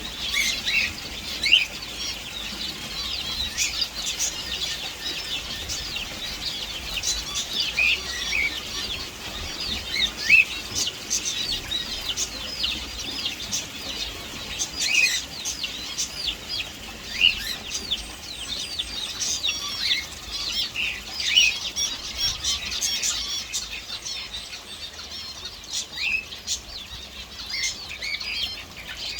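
A group of small birds chirping continuously, with many short, high chirps overlapping one another.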